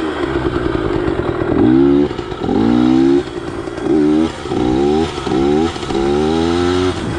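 Yamaha PW80's small single-cylinder two-stroke engine, fitted with an FMF slip-on exhaust and Boyesen reeds, revved in about six short bursts of throttle. Each burst rises sharply in pitch, then drops back between.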